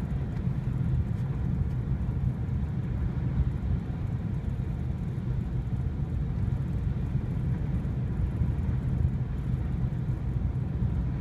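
Steady low rumble of an SUV's engine and tyres on a snowy road, heard from inside the cabin while driving.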